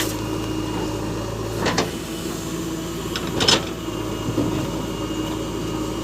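JCB 3DX backhoe loader's diesel engine running steadily during sand loading, with two short knocks about two seconds apart.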